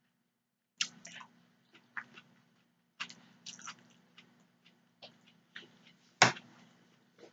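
Close-miked chewing of spaghetti: wet mouth clicks and smacks at irregular intervals, the loudest a sharp smack a little after six seconds in.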